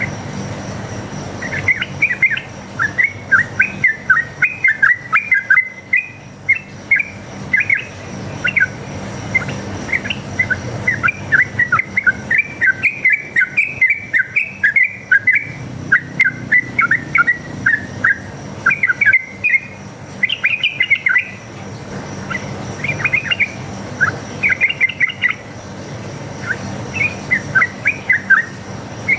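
Yellow-vented bulbul (trucukan) singing a long, fast, bubbly song of quick chirping notes in runs, with short pauses between them. This is a wild bird's fighting-style song, used as a lure to make other bulbuls answer.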